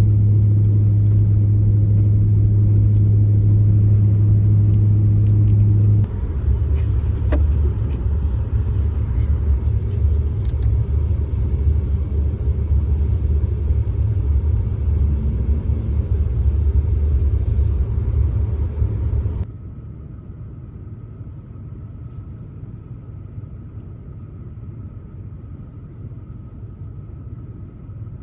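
Steady low rumble of a motor vehicle running. It changes abruptly about six seconds in and drops much quieter about nineteen seconds in.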